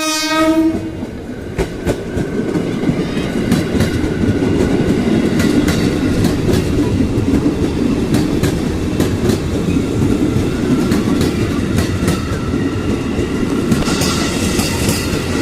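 A train passing close by, its wheels clacking over the rail joints in a steady run of clicks over a rumble. It is opened by the tail of a horn blast that stops under a second in.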